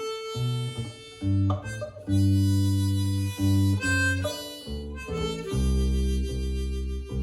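Harmonica playing held notes over acoustic guitar accompaniment.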